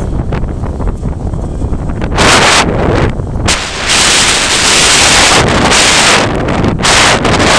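Strong gusty wind buffeting the microphone: a loud low rumble throughout, with gusts of hiss about two seconds in and again from about four seconds in.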